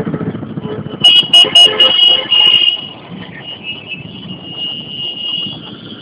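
Motorcycle engines running in street traffic, with a quick series of loud, short horn toots about a second in, then a steadier engine hum.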